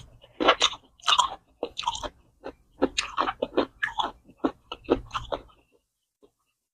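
Close-miked chewing and crunching of food in a mukbang: a quick, irregular run of crisp crunches that stops about five and a half seconds in.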